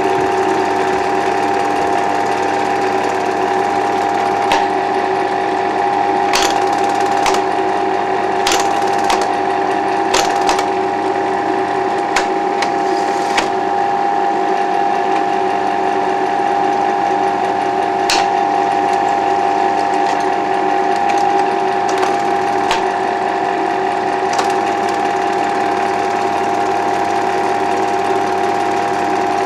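Bell & Howell Super/Standard 8mm projector running forward with its drive rebuilt: a steady mechanical whir from the motor and film-transport mechanism, with scattered sharp clicks.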